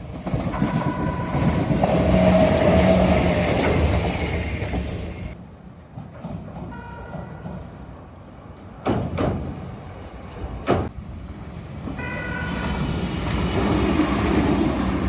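Shizuoka Railway electric train running past and sounding its horn in short steady two-note blasts: once near the start, again about seven seconds in and again near the end. The running noise is loudest two to four seconds in, with two sharp clicks in between.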